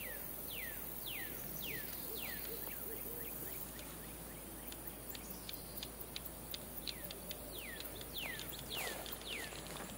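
A bird repeating a clear down-slurred whistle, about two notes a second, with faint ticks in the second half.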